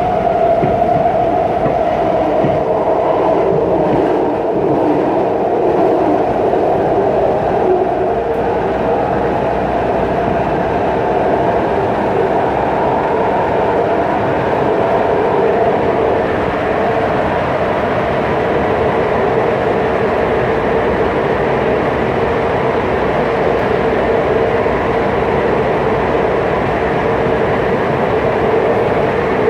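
BART train in motion, heard from a rider's position: a steady, loud running rumble with a wavering whine.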